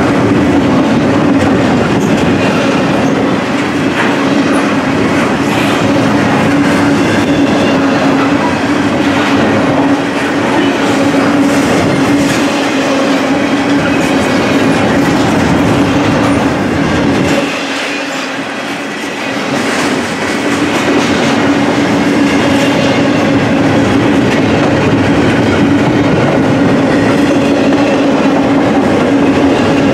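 Double-stack intermodal container cars of a freight train rolling past, their steel wheels running steadily on the rails with a constant hum. The noise drops briefly about two-thirds of the way through, then comes back.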